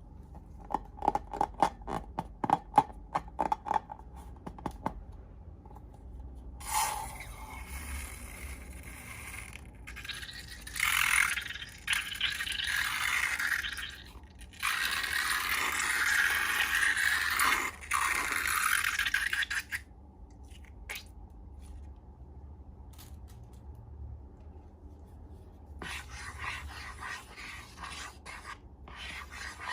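Slime-making handling sounds: a quick run of sharp clicks at first, then long stretches of scraping and rubbing.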